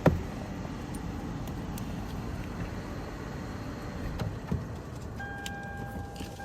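A car's steady low engine rumble, with a short knock at the start, a few faint clicks, and a steady electronic tone like a car chime starting about five seconds in.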